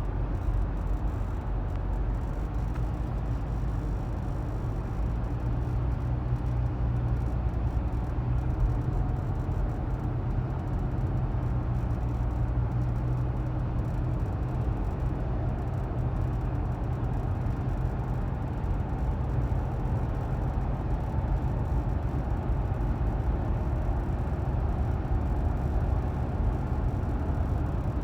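Steady low rumble of a 2023 Nissan Rogue on the move, heard from inside the car, with the squeaky noise its owner is trying to trace.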